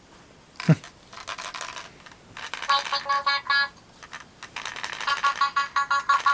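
Kachooz Kachatz Rock Star Alien plush toy making its electronic noises through a small speaker: a quick falling swoop about a second in, then two runs of rapid, stuttering buzzy tones.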